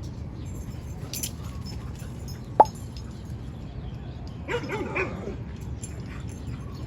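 Dogs barking at a dog park: one sharp yip about two and a half seconds in, then a short run of barks around five seconds in.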